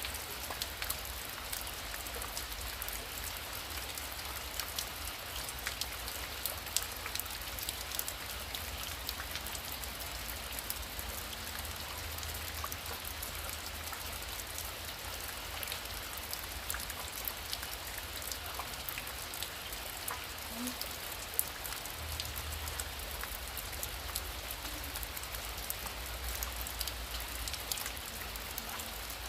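Heavy rain falling steadily, with many sharp individual drop hits scattered through the steady hiss.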